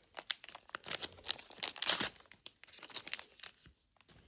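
Crinkling and tearing of a small plastic wrapper being pulled open by hand, a quick run of sharp crackles.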